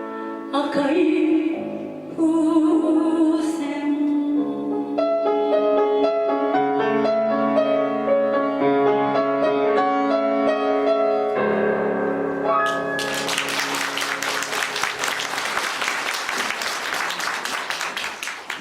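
A female singer holds the closing note of a chanson with vibrato over instrumental accompaniment. The accompaniment then plays the song's closing bars alone. About thirteen seconds in, the audience breaks into applause.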